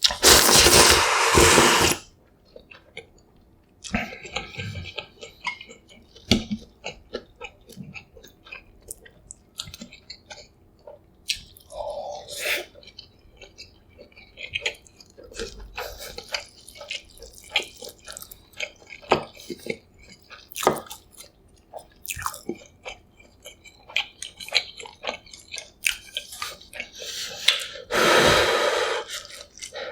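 Close-miked eating of Yukgaejang cup ramyun: a loud slurp of noodles lasting about two seconds at the start, then wet chewing with many small clicks, and another long slurp near the end.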